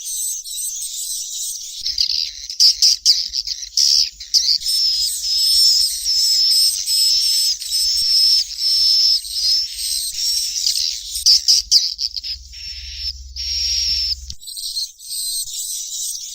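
Edible-nest swiftlet calls, sold as swiftlet chick sounds: a continuous chatter of high chirps and twitters. About two seconds in, a louder run of repeated short high calls joins the chatter and stops abruptly about two seconds before the end.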